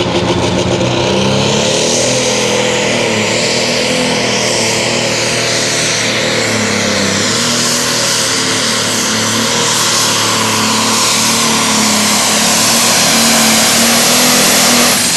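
John Deere Super Stock pulling tractor's turbocharged diesel engine running at full power under load as it pulls the sled, getting a little louder toward the end.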